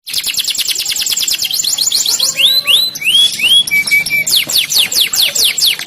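Canary singing a fast song of repeated phrases: a rapid trill of quick falling notes, about ten a second, then a few slower upward-curving whistled notes and short level pips about four seconds in, then a run of slower falling notes.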